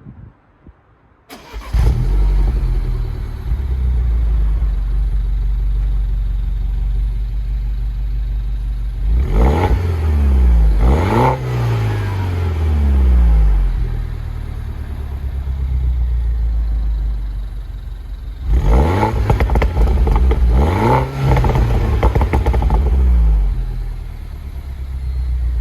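MINI Roadster John Cooper Works engine, a turbocharged 1.6-litre four-cylinder, heard through its stock exhaust: it starts up about two seconds in and idles, then is revved in two spells, the pitch climbing and falling several times in each before it drops back to idle.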